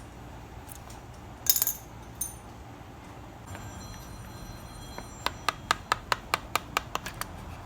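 Metal engine parts being handled and turned by hand: a sharp metallic clink, a faint ringing tone, then a quick even run of about a dozen clicks, about five a second.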